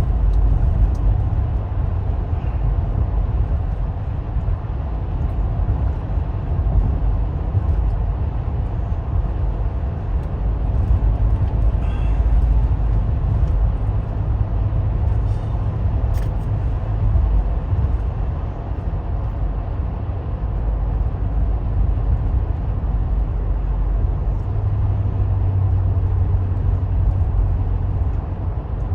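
Vehicle in motion: a steady low rumble of engine and road noise, as heard from inside the cabin.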